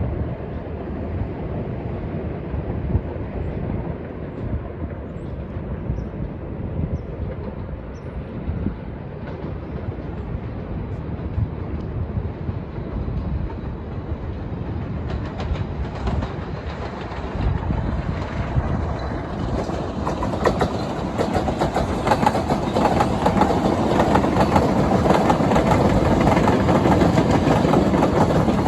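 A train running on the tracks, its wheels clicking over the rail joints, getting louder and brighter from about two-thirds of the way in as it comes closer.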